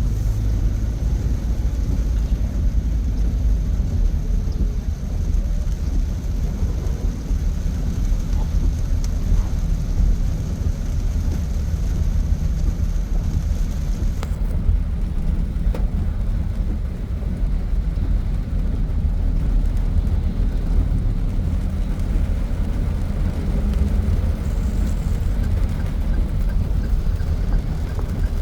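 Steady low rumble of a car driving through flooded, rain-soaked streets, heard from inside the cabin. A faint high steady tone cuts off about halfway through.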